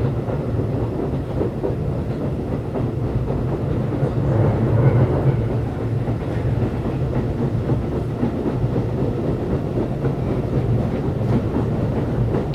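Keisei 3500-series electric train running between stations, heard from inside motor car MoHa 3514: a steady low hum from the traction motors and gears over the rumble of the wheels on the rails, with faint clicks from the rail joints.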